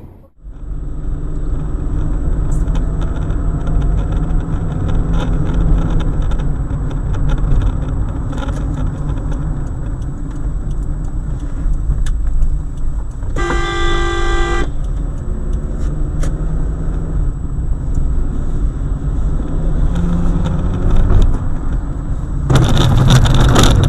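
Car driving, with a steady low engine and road rumble. A car horn sounds once for about a second midway through, and a loud harsh noise comes near the end.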